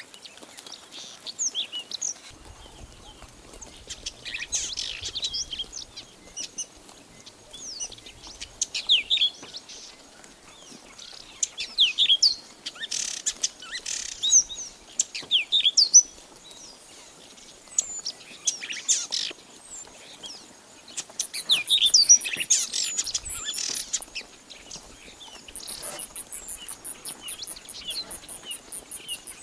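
Birds chirping: many short, high, quickly falling chirps overlapping one another, with a rapid, very high trill twice in the last third.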